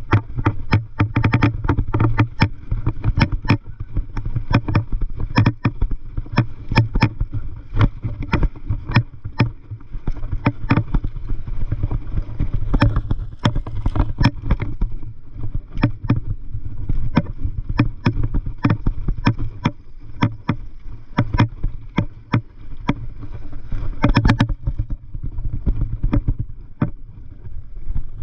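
Mountain bike riding over a rough dirt trail: irregular rattling clicks and knocks, several a second, over a steady low rumble.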